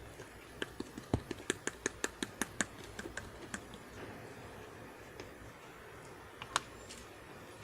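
Slime being pressed and squished by hand, giving a quick run of small sharp clicks and pops for about three seconds, then a couple more near the end.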